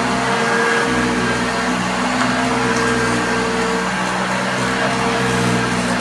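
1976 Hoover Junior U1016 Dirtsearcher upright vacuum cleaner running steadily on carpet, a continuous motor hum with a steady whir over it.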